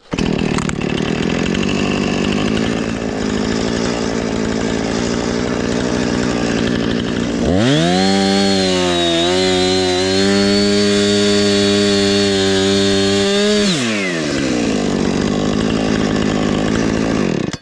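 Husqvarna two-stroke chainsaw running at low speed, then revving up sharply about seven seconds in and held at full throttle for about six seconds while cutting through a pine trunk, then dropping back to idle.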